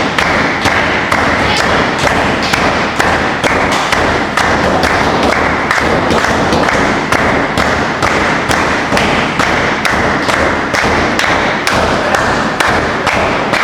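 Rapid, evenly spaced thuds, about three a second, over a steady rushing noise.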